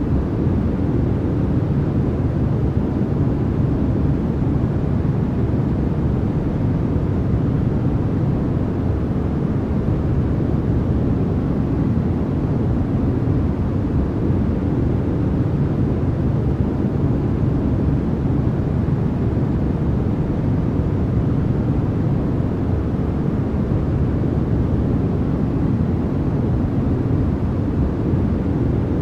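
Steady, unbroken noise track sold as white noise, deep and rumbling rather than hissy: most of its strength sits in the low range, with only a little hiss on top.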